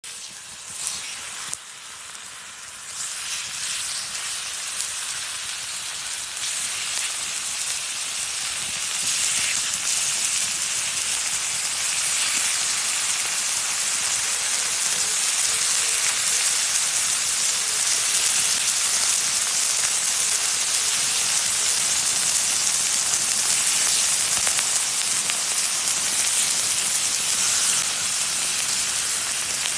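Food sizzling on a hot grill: a steady hiss that builds over the first ten seconds and then holds, with a few sharp crackles near the start.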